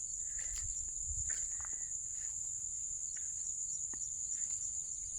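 Steady high-pitched insect chorus, with scattered short chirps and clicks over it.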